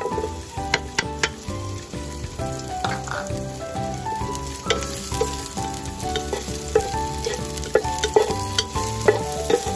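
Shrimp paste and sliced garlic sizzling as they fry in hot oil in a pot. A wooden spatula stirs them, clicking against the pot several times.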